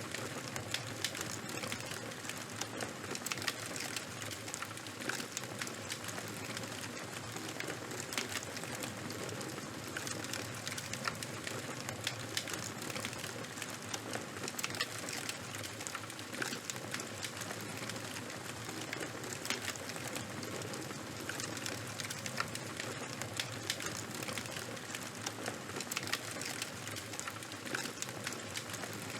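Charcoal and wood fire crackling steadily: a dense stream of small sharp pops and snaps over a constant hiss.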